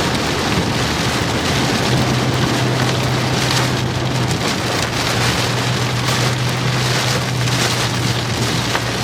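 Heavy rain pelting a moving vehicle during a thunderstorm, heard from inside, a dense steady hiss. A steady low hum joins about a second and a half in.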